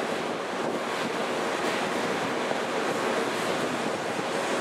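Rain falling steadily: an even, unbroken hiss with no distinct knocks or tones.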